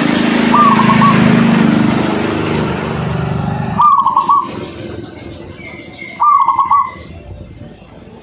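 A zebra dove (perkutut) sings its rolling, stuttering coo phrase three times, about three seconds apart. Under the first coo runs the loud noise of a motor vehicle's engine, which cuts off about four seconds in.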